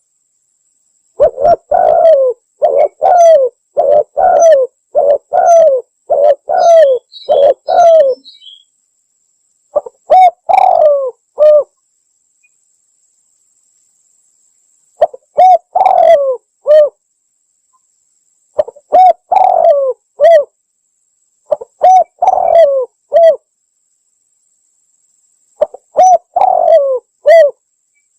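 Spotted dove (tekukur) cooing, played as a hunter's lure call: phrases of short, throaty coos, first a run of about seven, then shorter groups of three or four, with silent gaps between the phrases.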